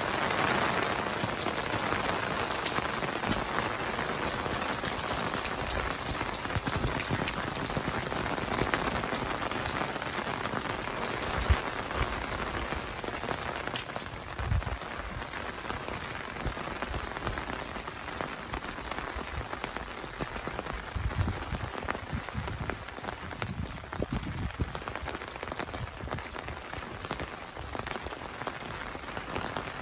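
Heavy rain pattering on surfaces: a dense, even hiss of drops that slowly eases over the stretch.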